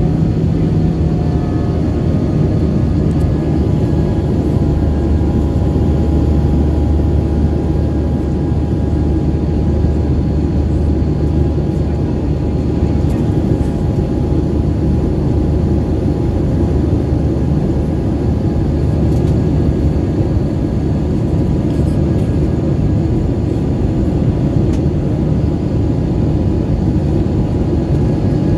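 Jet engines of an Airbus A320 running at high power, heard inside the passenger cabin: a loud, steady rumble with faint whining tones above it that shift slightly in pitch in the first couple of seconds.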